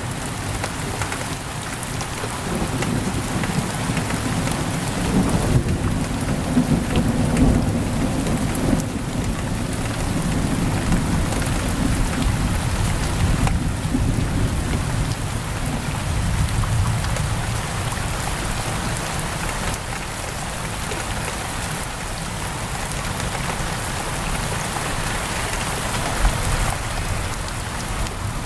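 Heavy rain pouring steadily on a window, with a low rolling rumble of thunder through the first half that fades away.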